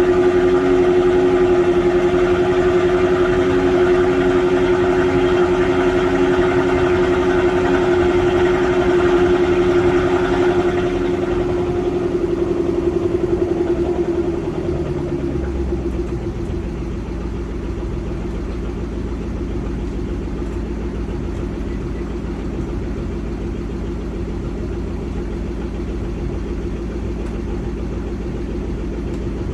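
Supercharged 5.0-litre V8 of a Range Rover Sport with an Overfinch sport exhaust idling after a cold start: it holds a raised fast idle, then about halfway through drops to a lower, quieter steady idle as it warms.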